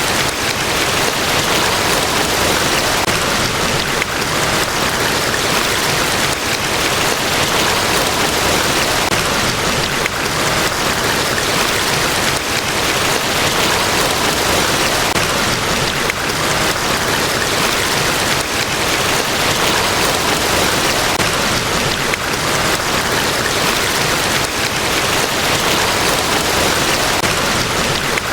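Large waterfall at Niagara Falls: a loud, steady, unbroken rush of falling water with no change in level.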